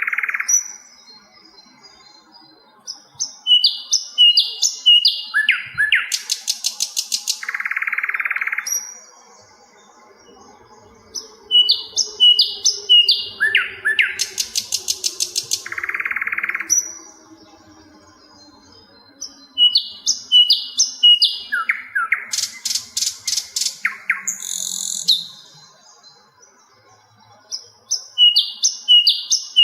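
Sikatan londo flycatcher song, a loud phrase repeated about every eight seconds: a short harsh buzz, a run of clear whistled notes stepping down in pitch, and a very fast high trill.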